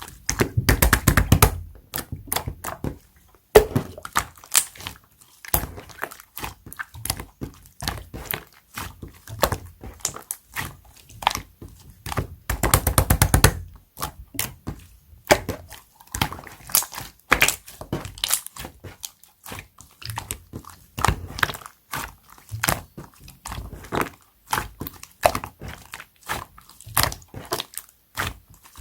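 Clear slime being squeezed and pressed, giving an irregular stream of wet pops and clicks from trapped air bubbles, with two denser runs of rapid crackling, about a second in and near the middle.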